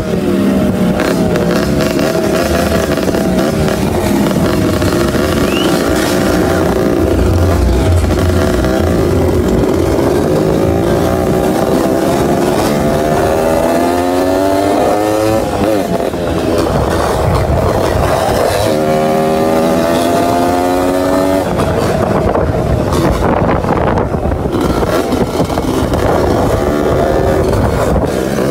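Motorcycle engine revving hard, its pitch climbing in long pulls that drop off between them, twice, as the rider holds the bike up in a wheelie.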